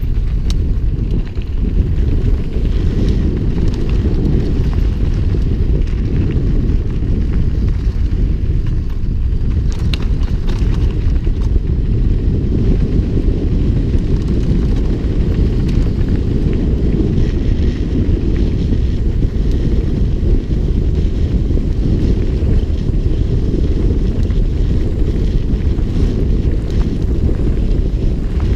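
Steady heavy wind rumble on the microphone of a camera riding along on a fast mountain-bike descent, with a few faint ticks and rattles from the bike over the trail.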